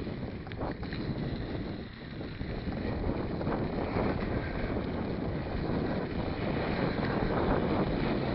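Wind rushing over the microphone of a camera on a moving mountain bike, mixed with the bike's riding noise. It grows a little louder after about two seconds, with a few faint clicks in the first second.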